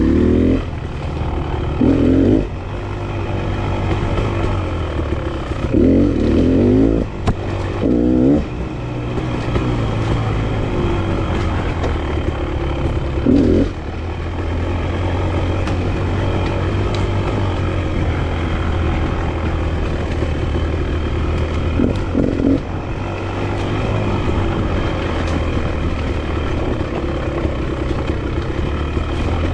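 Enduro dirt bike engine running along a trail, with several short bursts of throttle over a steady lower engine note.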